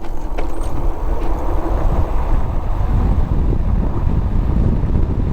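Wind rushing and buffeting over the microphone as an electric bike with two direct-drive hub motors accelerates hard from a standstill. A faint steady hum is heard under the wind for the first two seconds or so.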